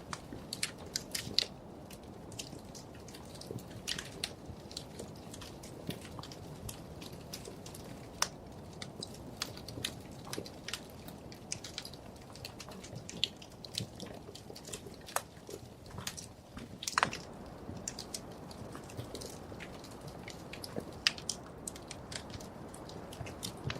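Wood fire crackling and popping in a fireplace: frequent irregular sharp pops and snaps over a low steady hiss of the burning logs.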